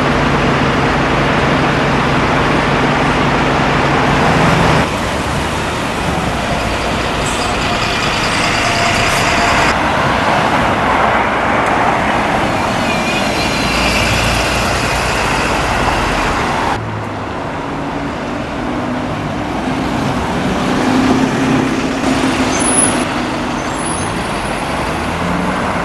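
Large diesel vehicle engine running, with a high whine coming and going in the middle. The sound changes abruptly about five and seventeen seconds in.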